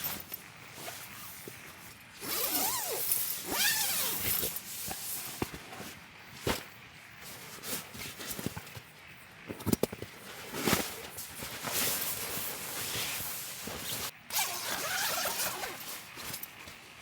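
Handling noises from camping gear: irregular rustling and scraping, with a few sharp clicks and knocks.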